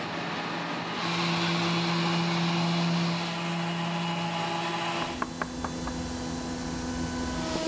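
An electric power tool running steadily with a humming whine that shifts to a lower pitch about five seconds in, with a few light clicks around the change.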